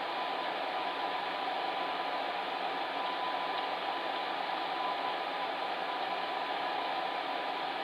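Electric fan heater running steadily: an even whoosh of blown air with a faint steady hum.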